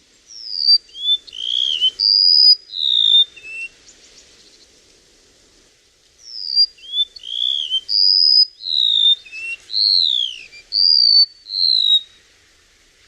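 Flowerpecker (chim sâu) singing: two phrases of quick, clear, high whistled notes, some sliding down in pitch, with a pause of about three seconds between them.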